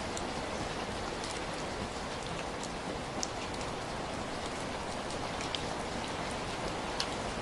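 Heavy rain falling steadily, a dense even hiss with scattered sharper drip and splash ticks.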